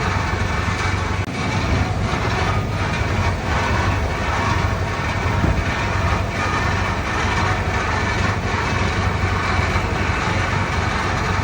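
Komatsu D31P bulldozer's diesel engine running steadily, a constant low hum with dense mechanical noise over it.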